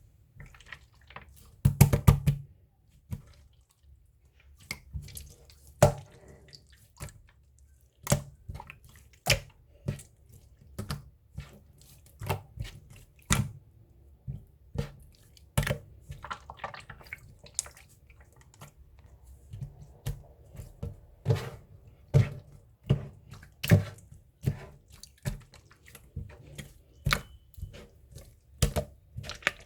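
Slime being pressed and squished by hand, making irregular wet clicks and pops about one or two a second, with a louder flurry about two seconds in.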